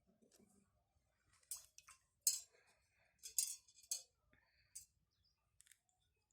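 A string of short clicks, clinks and scrapes of small hard objects being handled, the loudest about two and three and a half seconds in.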